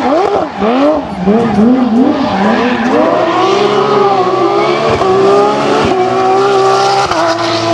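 Rally car engine revving hard: its pitch swings up and down quickly several times, then holds and climbs slowly under steady acceleration. Three short sharp cracks come about five, six and seven seconds in.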